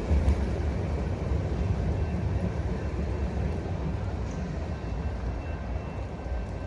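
Low, steady rumble of a train on the tracks, slowly fading.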